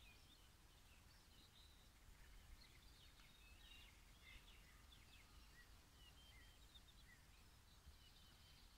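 Faint outdoor birdsong: scattered short chirps and brief trills from small birds, over an otherwise near-silent background.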